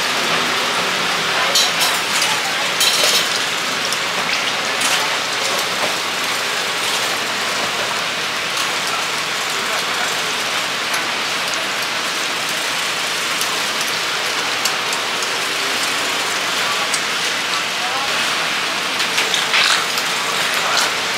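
Takoyaki frying in oil in a takoyaki griddle: a steady, dense sizzle. A few clusters of metallic clicks and scrapes come near the start and near the end, as metal picks turn the balls in their cups.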